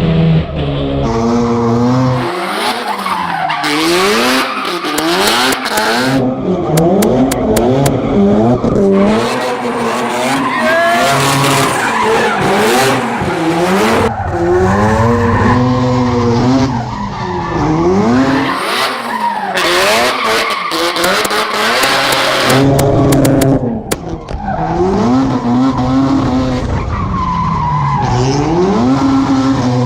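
Rotary engine revving hard, its pitch rising and falling every couple of seconds as the car is driven sideways, with tyres squealing and skidding.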